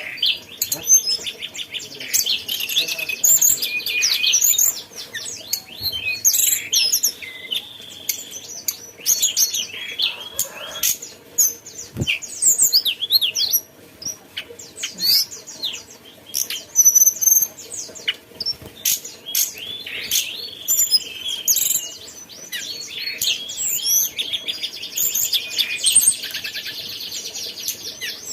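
Tledekan gunung songbird singing a long, varied song of quick chirps, whistled sweeps and rapid rattling trills. One short knock sounds about twelve seconds in.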